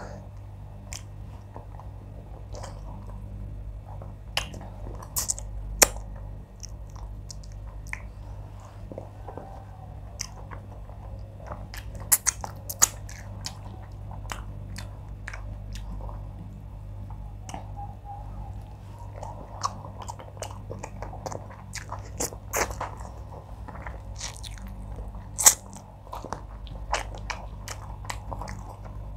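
Close-miked chewing and wet lip-smacking of a person eating wheat fufu and fish in oha soup by hand, with irregular sharp mouth clicks. A steady low hum runs underneath.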